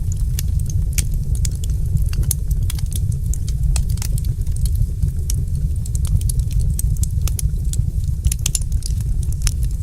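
Wood fire crackling, with many quick, irregular sharp pops and snaps over a steady low rumble.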